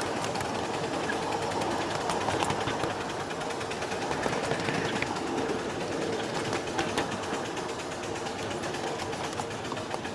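Live-steam miniature train running along the track: a steady rumble of wheels on rail with a rapid run of small clicks.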